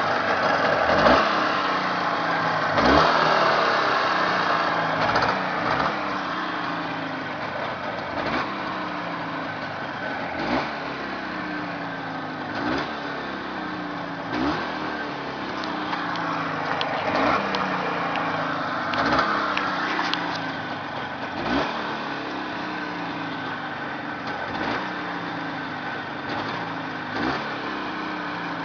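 Jawa 638 air-cooled 350 cc two-stroke twin engine idling on a test run, with a short throttle blip every two to three seconds that briefly raises the revs before they fall back.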